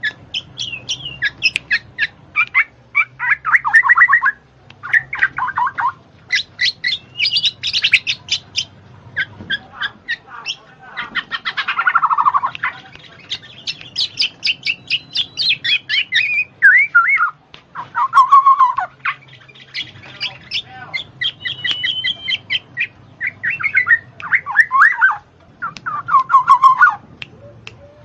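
Birds chirping and squawking in a rapid, nearly continuous chatter of short notes and falling calls.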